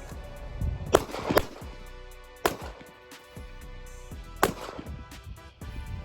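Four gunshots at uneven spacing, about one, one and a half, two and a half and four and a half seconds in, over background music.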